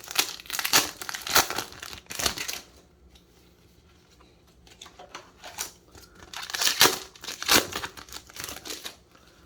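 Crinkling and rustling of Yu-Gi-Oh booster pack wrappers and cards being handled. It comes in two spells of quick rustles, the first over the opening two and a half seconds and the second from about five seconds in until near the end.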